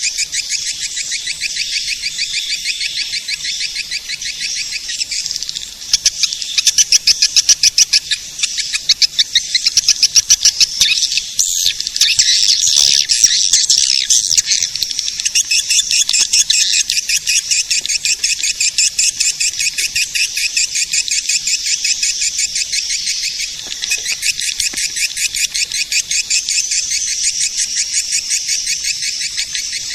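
Swiftlet caller recording: swiftlet calls played back as a lure, a dense stream of rapid, high-pitched chattering chirps with no low end. Louder, choppier bursts come from about six seconds in.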